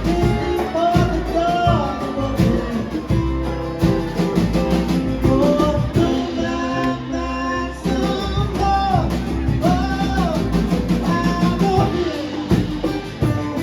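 A live band playing a rock song: a voice singing a melody over guitar and a drum kit.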